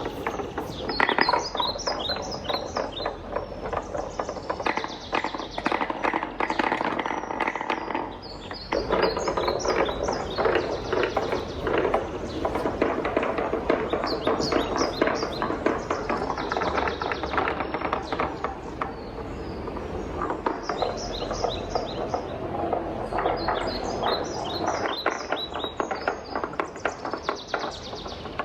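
Wooden balls rolling and clattering down a wooden marble run: a continuous rattle of small wooden knocks, with repeated clusters of high, bright ticks.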